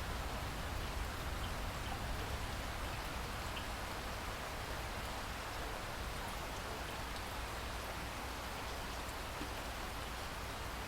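Steady rain falling in a rainforest, an even hiss of rain with a few faint drop ticks.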